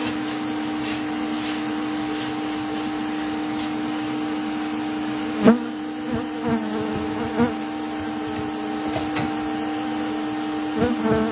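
Steady motor hum of a bee vacuum running, mixed with the buzzing of honeybees. One sharp knock about five and a half seconds in.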